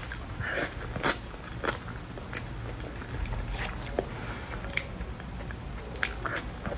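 A person chewing soft, creamy durian flesh close to a clip-on microphone: wet chewing with sharp lip and tongue smacks every half second to a second.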